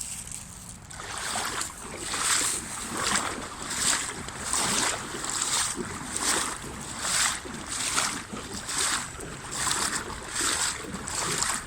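Wading steps through floodwater in waders: a steady rhythm of sloshing swishes, a little more than one a second.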